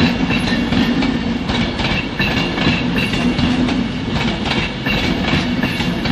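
Class 390 Pendolino electric train moving through the station, wheels clattering over rail joints over a steady low hum.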